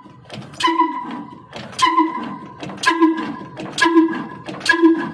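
Slow-running stationary engine (a 'kala engine'), each firing a sharp beat followed by a short ringing tone, about once a second, the beats coming slightly faster toward the end.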